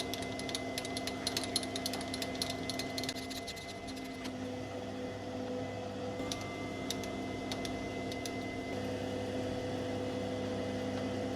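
Metal lathe running steadily, a motor hum made of several constant tones with scattered light ticks; the hum shifts slightly about three quarters of the way through.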